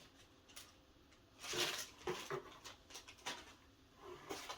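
Rustling and light knocks of packaging and plastic parts being handled: a short burst of rustle about a second and a half in, then a few small clicks.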